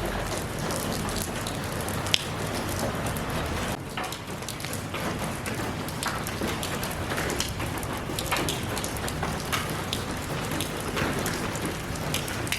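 Steady rain falling, an even hiss with scattered individual drops striking close by, one sharper tap about two seconds in.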